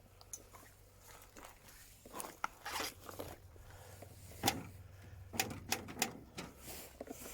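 Irregular clicks, taps and short rustles, with the loudest tap about four and a half seconds in, over a faint steady low hum.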